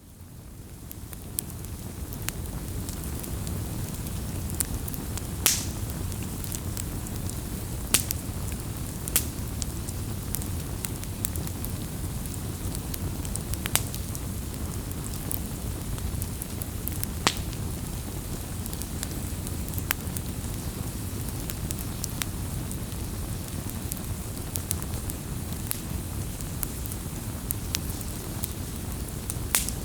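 Wood campfire burning, with a low steady rumble of flames and scattered sharp crackles and pops. It fades in over the first couple of seconds.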